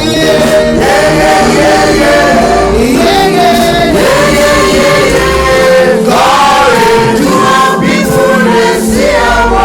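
Church congregation singing a gospel praise song together, many voices on one melody with gliding sung notes, loud and continuous.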